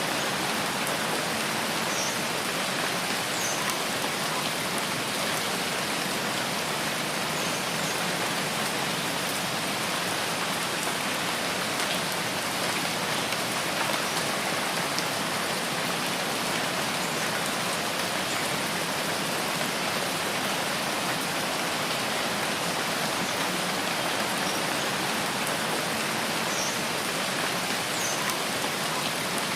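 Steady rainfall in a rain forest, an even hiss of drops on leaves and ground. A few faint, short, high chirps come and go within it.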